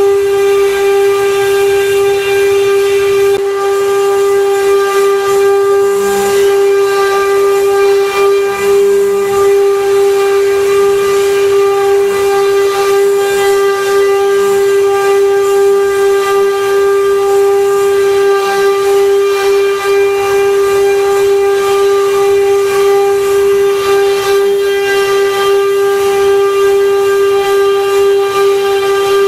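CNC wood-carving router's spindle running with a steady, unchanging high whine over a light hiss.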